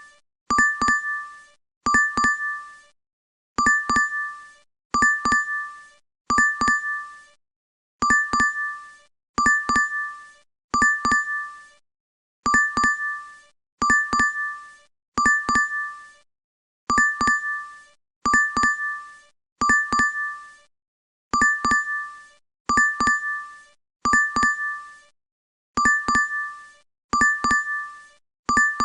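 DoorDash app notification chime, looped: a bright two-tone ding with a quick double strike that rings and fades. It sounds over and over in sets of three, about a second and a half apart, with a slightly longer pause between sets.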